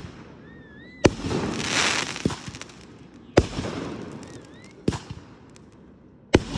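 Firework shells bursting overhead: five sharp bangs a second or two apart, each trailing off in a rumbling echo and crackle.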